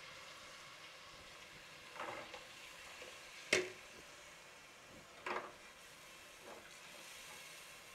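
Tomatoes and spices sizzling gently in oil in a pot over low heat, with a steel spoon scraping and knocking against the pot a few times as the tomatoes are stirred and pressed; the loudest knock comes about three and a half seconds in.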